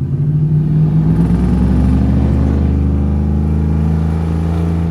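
Vehicle engine running steadily with a deep low note; the revs rise slightly about a second in and then hold.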